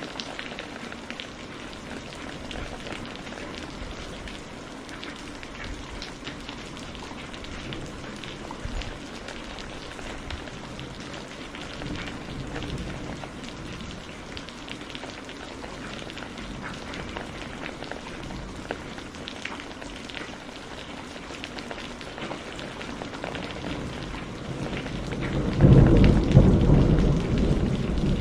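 Steady rain falling, a continuous hiss flecked with individual drop ticks. Near the end a loud, low roll of thunder breaks in and keeps rumbling.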